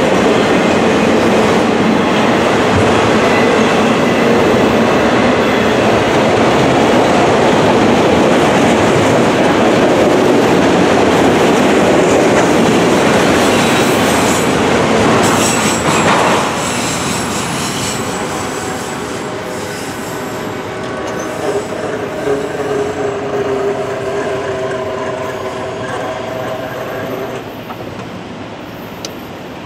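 Freight train rolling past on steel rails, its wheels running loud and even, with some wheel squeal. The sound drops off about halfway through and grows fainter.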